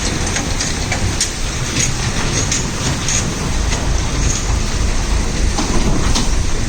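Fully loaded Ashok Leyland lorry's diesel engine running with a steady low rumble as it drives over a broken road, under a noisy haze with many scattered sharp ticks and rattles.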